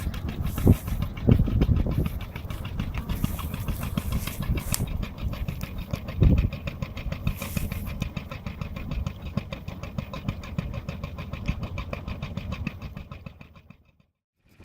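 A 1936 Olympia marine engine running at a steady idle, with even, regular firing beats and a few louder thumps. It fades out near the end.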